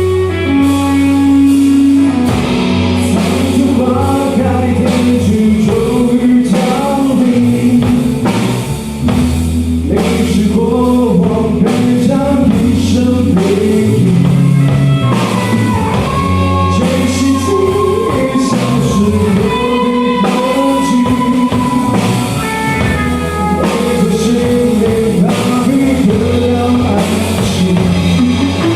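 Rock band playing a song: drum kit, bass and guitar, with a melodic line bending and holding notes over them.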